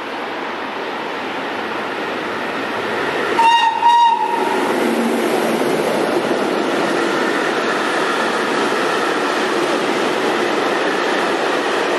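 A freight train's locomotive gives two short horn blasts about three and a half seconds in, as the train comes through the station. A long rake of tarpaulin-covered steel-coil wagons then rolls past with a steady rumble of wheels on rail, louder after the horn as the train closes in.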